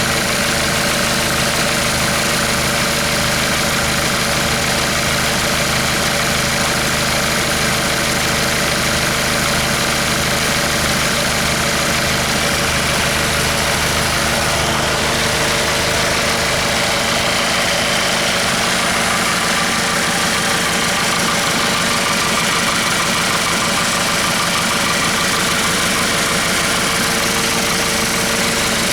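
Hyundai/Kia D4CB 2.5-litre four-cylinder common-rail diesel engine idling steadily during an oil pressure test.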